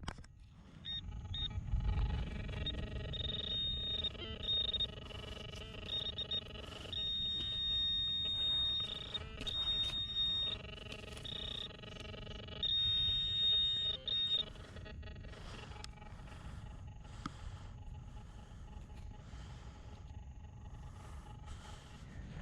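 High electronic alarm-like tones sounding on and off in stretches of a second or two for about fourteen seconds, then a fainter steady tone, over a low rumble.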